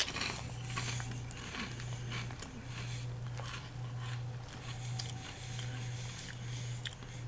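A person chewing crunchy ripple-cut potato chips with the mouth closed: quiet, irregular crunches over a low hum.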